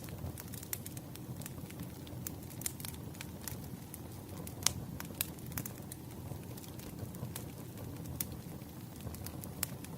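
Wood fire burning: irregular sharp crackles and pops over a low steady rumble, with one louder pop near the middle.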